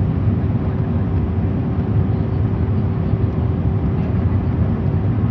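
Steady cabin noise of an airliner on its approach: the low drone of the engines and the rush of air past the fuselage, with a faint steady hum over it.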